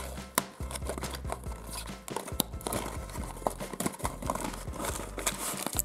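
Small cardboard toy-and-candy box being torn open by hand: a run of sharp cardboard tears, crackles and clicks over quiet background music.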